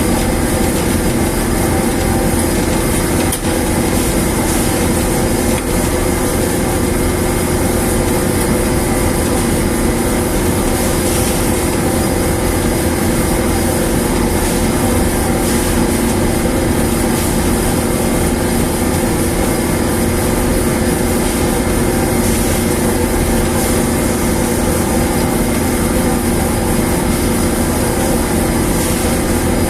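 A newly installed dryer machine running steadily: a loud, continuous mechanical drone with a constant hum and no change in speed.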